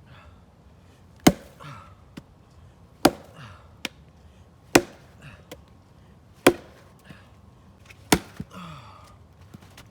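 Axe chopping wood: five sharp strikes at an even pace, about one every second and a half, each followed by a brief softer clatter.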